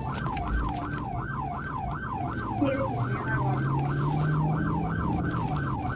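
Police car siren in yelp mode, sweeping rapidly up and down about two and a half times a second, with a low steady vehicle rumble underneath.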